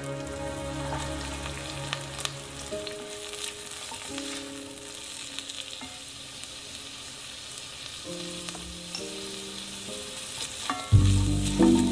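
Chopped onions sizzling and crackling in hot oil in a Dutch oven. Soft background music with held notes plays underneath and grows louder about a second before the end.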